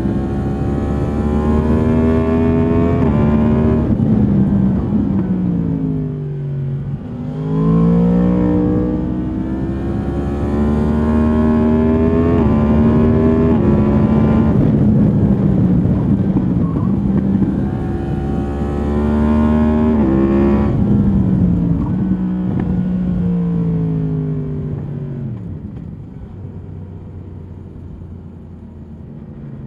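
A stock 2022 Yamaha MT-10's crossplane inline-four engine and exhaust, heard from the rider's seat, pulling hard through the gears. The engine note climbs and drops back at each upshift. It falls away twice as the rider rolls off and slows, and is quieter near the end.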